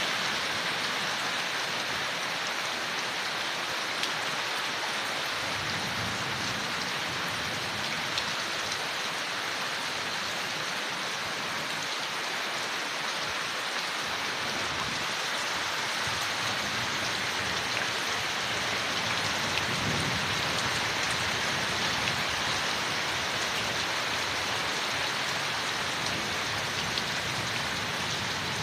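Steady rain falling on leaves, an even hiss with a few distinct drops ticking through it.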